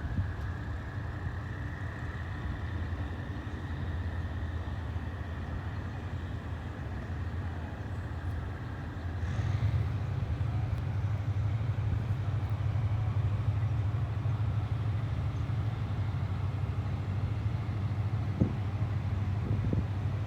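Diesel locomotive engine running with a steady low drone that gets louder about halfway through, a thin high whine fading out before then, and two short knocks near the end.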